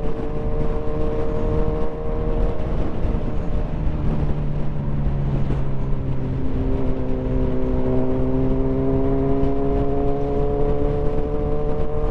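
Motorcycle engine running under way with wind rush. Its note holds steady, dips about halfway through, then climbs slowly as the bike gains speed.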